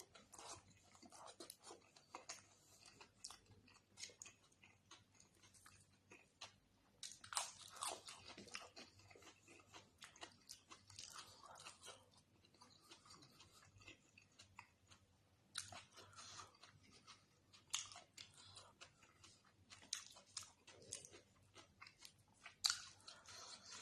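Close-miked eating: a person chewing and biting with wet mouth sounds and irregular sharp crunches, a few coming in quick clusters, the loudest near the end.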